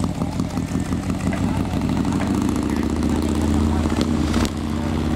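Engine of a three-wheeled open sports car running with a pulsing note as the car drives away. The sound drops off suddenly about four and a half seconds in.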